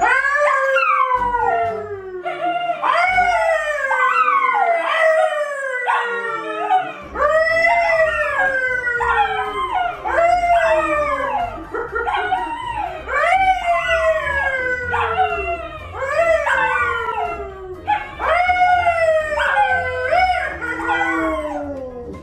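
A pet animal crying over and over in long wailing calls, about one a second, each rising briefly and then sliding down in pitch.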